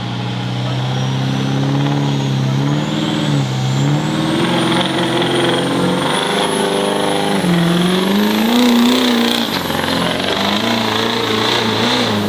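Turbo diesel pickup truck engine running at low revs as it is driven off, its pitch rising and dipping several times. Over it, a turbocharger whistle climbs slowly and steadily in pitch.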